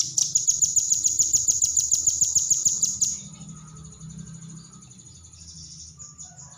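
Velvet-fronted nuthatch (rambatan paruh merah) giving a rapid trill of sharp, high notes, about ten a second, for about three seconds before stopping.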